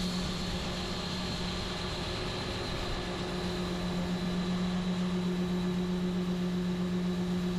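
Combine harvester engine running at a steady speed: a constant low hum with a faint high whine above it.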